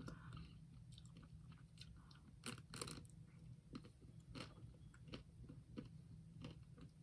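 Faint chewing and biting on a Magnum double caramel ice cream bar, with a few small crunches of its chocolate shell.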